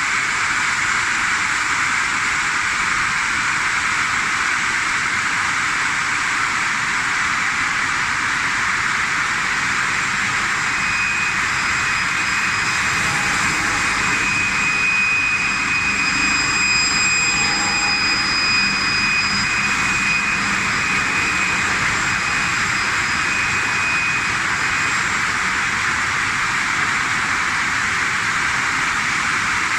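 Circular saw blades of a CNC log cutting saw machine running: a loud, steady rushing noise, with a thin high whine from about 11 to 25 seconds in.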